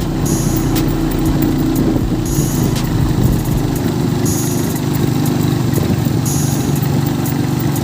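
Tractor engine running steadily while it travels, with scattered rattling clicks and a short high-pitched hiss about every two seconds.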